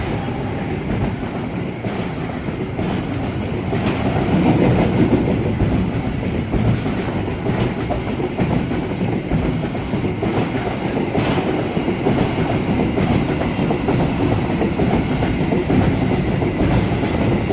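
Long container freight train passing, a steady rumble of wagons with the wheels clicking over the rail joints, growing louder about four seconds in.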